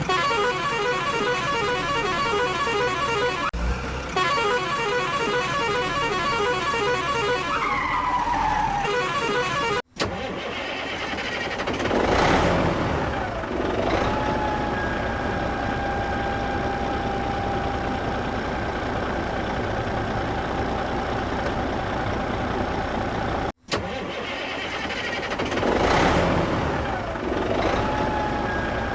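Looped vehicle sound effects. First a fast pulsing engine-like sound that ends in a falling tone, then after a sudden cut a steady high whine with two rushing swells. A second sudden cut starts the whine and swells over again.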